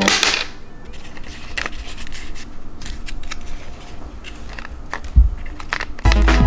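Handling noises: scattered light clicks and rustling, with one sharp knock about five seconds in. Background music starts again near the end.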